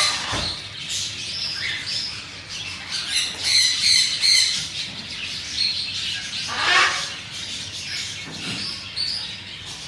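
Birds chirping and squawking: several loud sweeping calls, the loudest at the start and about seven seconds in, with a burst of rapid high chirping around four seconds in.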